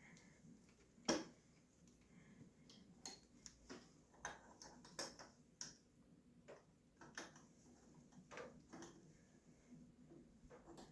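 Faint, scattered light clicks and taps of hand work on the dirt bike's engine top end, the sharpest about a second in, over near silence.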